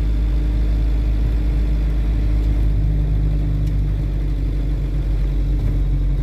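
Motorhome driving, its engine and tyres making a steady low rumble.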